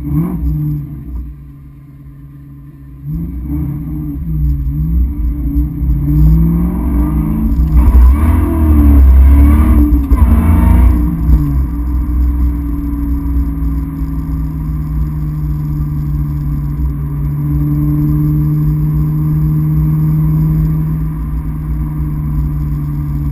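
1997 Ford Mustang Cobra's 4.6-litre DOHC V8, heard from inside the cabin, revving briefly and then accelerating hard through the gears. The note rises and drops back at each upshift, several times over about nine seconds. It then settles into a steady cruise.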